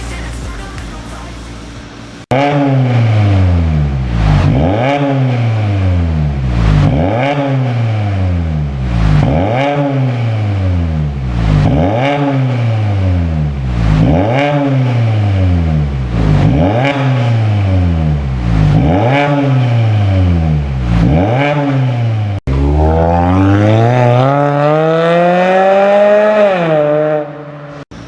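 Kia K5 2.0 CVVL four-cylinder engine breathing through an aftermarket dual valved exhaust, revved in quick blips about every two seconds with a deep mid-bass exhaust note. Near the end comes one longer rev that climbs for about four seconds before dropping back.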